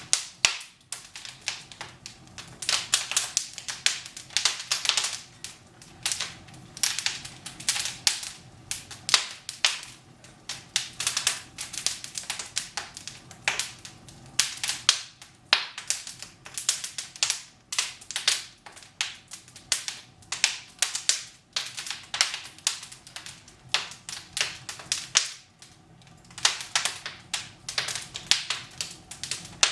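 Wood fire crackling in a fireplace, with sharp irregular pops coming several times a second and in clusters.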